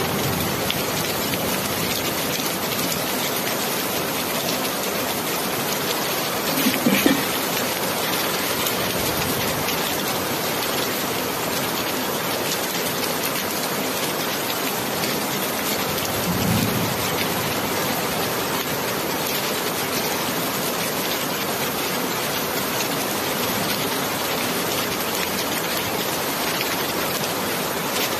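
Steady, even rainfall. A short low thump about seven seconds in and a softer low rumble a little past halfway.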